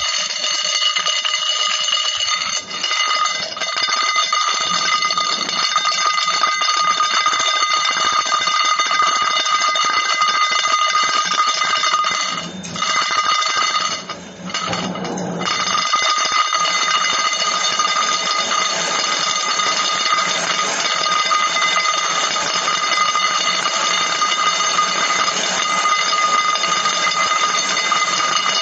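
A continuous ringing tone, like an electric bell or alarm, holding several steady pitches at once, with two brief dropouts a little before and just after the middle.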